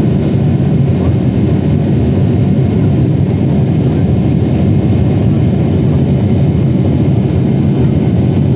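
Steady low rumble inside the cabin of a Boeing 777-300ER airliner.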